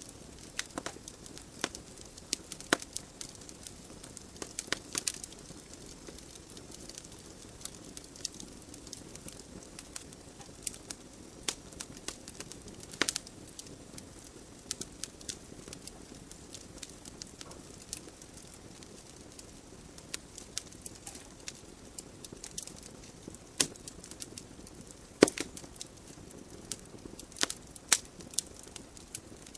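Wood logs burning in a fireplace: irregular crackles and sharp pops over a soft, steady hiss of flames, with a louder pop about 25 seconds in.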